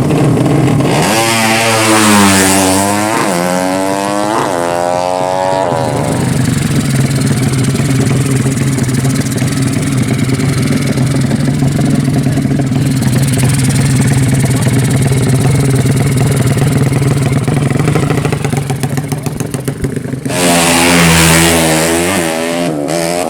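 Drag-race motorcycles accelerating hard: engine pitch climbs and drops three times through gear changes in the first few seconds, then a steady engine hum continues. Near the end another motorcycle accelerates hard, its pitch climbing through the gears.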